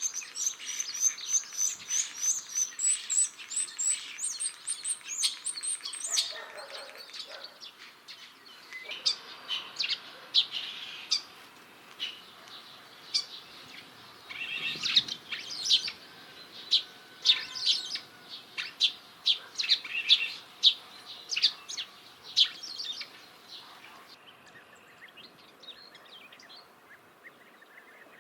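Common starling singing: a long jumble of rapid repeated high whistles, rattles and sharp clicks. About 24 seconds in, the song breaks off and the sound turns quieter and different.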